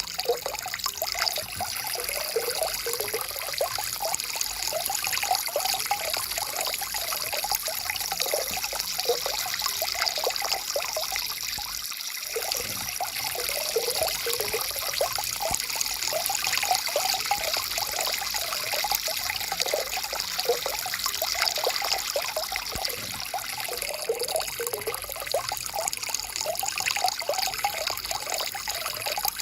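A stream flowing and trickling steadily, with continuous bubbling gurgles.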